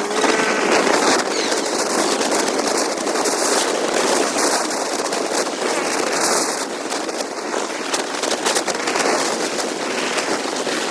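Wind buffeting a camera microphone on a moving motorcycle: a loud, rough rush of noise full of rapid crackles, with no clear engine note.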